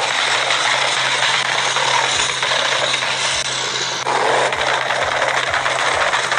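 Turbocharged car engine with its turbos poking up through the hood, revved hard: a loud, even rasping roar with a fine crackle. There is a brief change about four seconds in.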